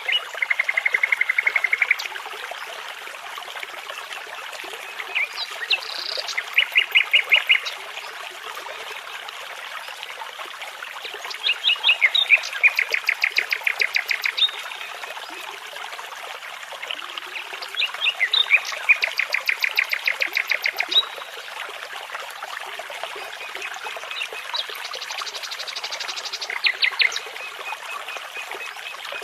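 Nightingale singing in separate phrases of fast repeated notes, five phrases a few seconds apart, over the steady rush of a babbling brook.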